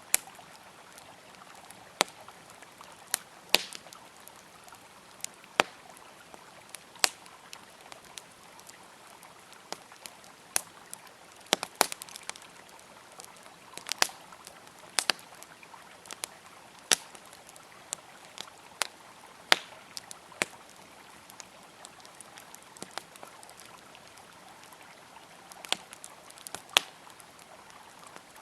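Wood fire crackling, with sharp pops at irregular intervals, over the steady sound of a flowing river.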